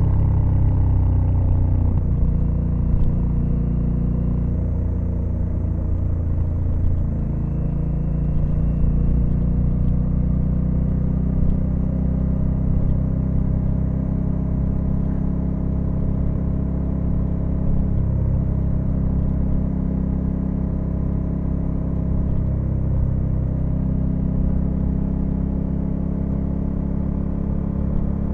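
Honda Africa Twin CRF1100L's 1084 cc 270-degree parallel-twin engine running under way. The engine note shifts in pitch in the first two seconds, then holds fairly steady, with a low rumble beneath.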